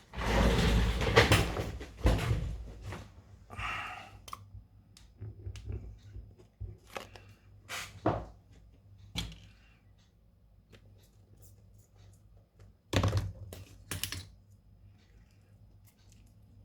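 Handling sounds on a repair bench: a rustling burst for about the first two seconds, then scattered light clicks and knocks, with a few louder knocks about 13 seconds in.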